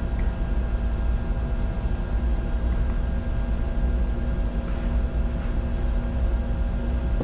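Steady in-flight cockpit noise of a Bombardier Challenger 605 business jet: a constant low rumble of airflow and engines with an even hum of several steady tones, during an approach with flaps extended.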